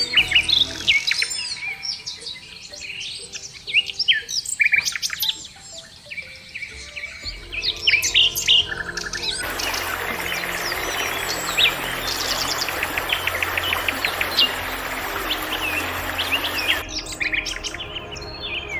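Several small birds chirping and calling in quick, rapidly rising and falling notes. A little past halfway an even hiss joins them for about seven seconds and then cuts off suddenly.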